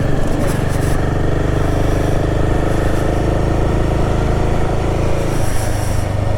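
Royal Enfield Himalayan 450's single-cylinder engine running steadily while the motorcycle is ridden, its note changing about five seconds in.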